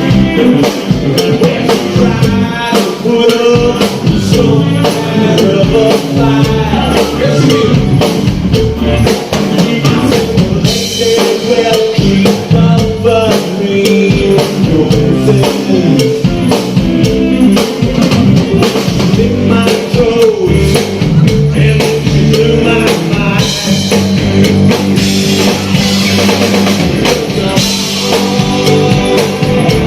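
A live band playing a rock-style song with drum kit and electric guitar, a singer's voice over it.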